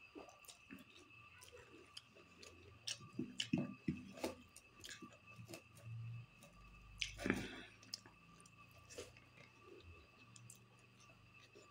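Close-up chewing and mouth sounds of someone eating rice and curry by hand, with irregular small clicks and lip smacks and a louder smack about seven seconds in. A faint steady high whine runs underneath.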